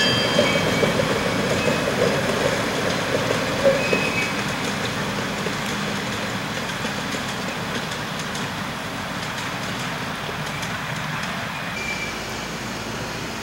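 A 15-inch gauge ride-on train running along the track and moving away, its wheels rumbling on the rails, the sound fading steadily as it goes.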